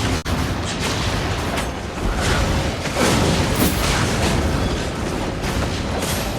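A dense run of fight sound effects: repeated heavy impacts and booms, one after another, over a continuous noisy backdrop.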